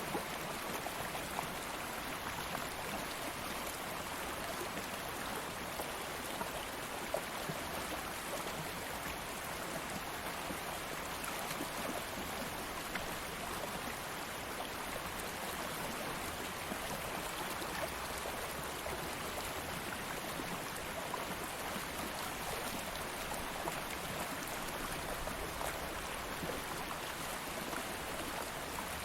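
Stream of water flowing steadily over rocks, a continuous rushing and babbling with small splashes throughout.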